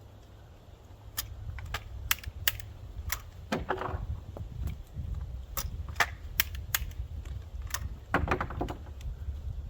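Dummy shotgun shells and a shotgun being handled in a reload drill: a string of sharp clicks and knocks, with two short rattling bursts about three and a half and eight seconds in.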